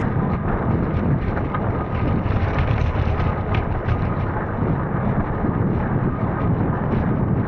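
Steady wind buffeting the microphone, a dense low rumble with a few faint ticks scattered through it.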